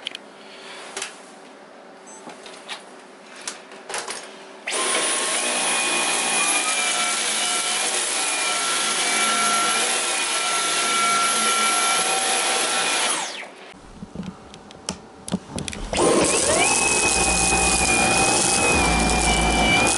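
Dyson V11 Animal cordless stick vacuum switched on about five seconds in, its motor whine stepping up in pitch shortly after, running steadily, then switched off about thirteen seconds in. After a few handling clicks it starts again about sixteen seconds in, its whine rising to speed.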